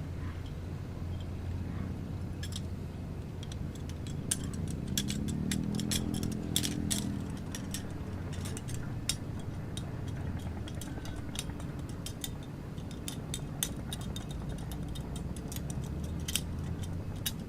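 Many small clicks and clinks, like objects being handled, over a steady low hum. A motor rises and fades briefly about five seconds in.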